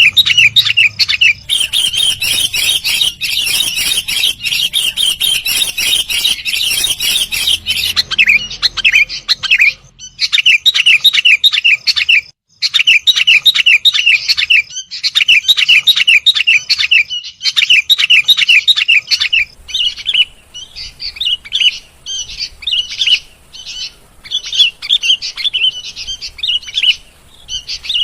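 Sooty-headed bulbul (kutilang) singing in rapid, repeated short phrases, with a brief pause about twelve seconds in.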